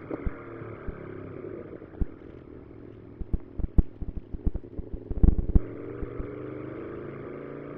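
Aprilia Tuono V4 1100 RR's 1077 cc V4 engine running steadily while under way, with a run of sharp clicks and knocks from about three to five and a half seconds in.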